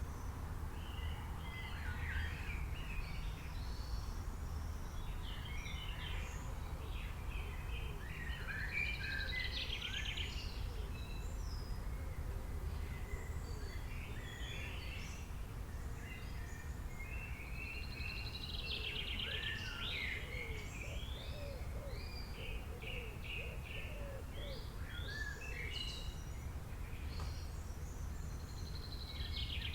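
Several small birds chirping and twittering in a busy chorus, with a denser buzzy trill coming back about every ten seconds, over a steady low rumble.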